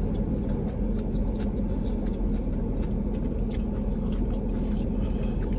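Car air conditioning blowing steadily inside the cabin with a low hum, overlaid by scattered small clicks of someone chewing food.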